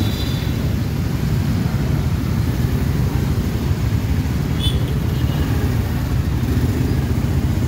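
Steady low rumble of riding a motorcycle in city traffic: engine and road noise with wind on the microphone. A brief high-pitched chirp comes about four and a half seconds in.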